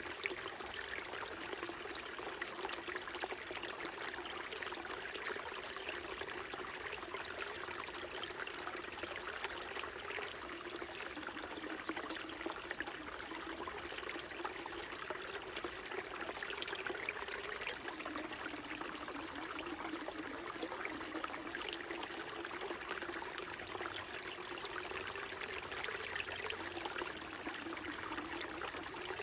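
Small mountain brook flowing and trickling steadily, with many small splashes and a low wavering note from the water.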